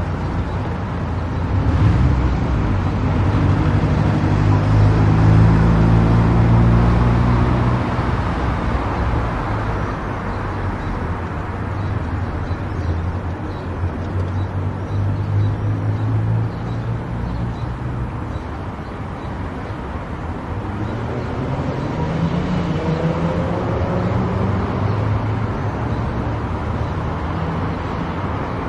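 Car driving at highway speed: steady engine and tyre-on-road noise, with the engine note rising in pitch a couple of times.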